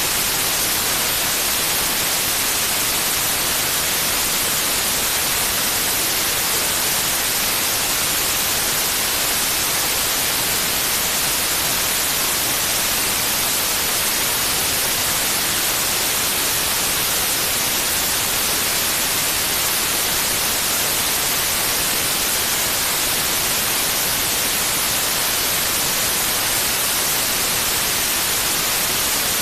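Steady white noise, an even hiss weighted toward the highs, with no change in level or character.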